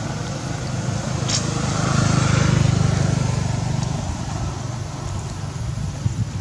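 A motor vehicle's engine running as it goes past, growing louder toward the middle and then fading.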